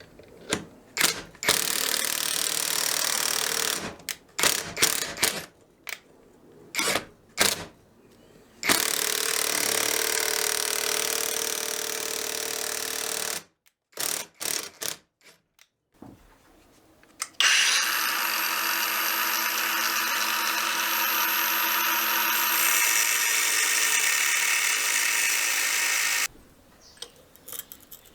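A handheld power tool running in three long spells of several seconds each, with short clicks and knocks from handling between them.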